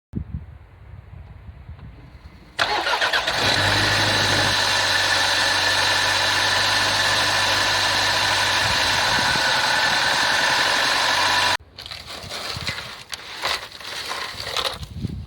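Small four-cylinder 8-valve petrol engine cold-starting: it comes in suddenly loud a few seconds in and runs on steadily. It stops abruptly about eleven seconds in, followed by a few clicks and wind noise.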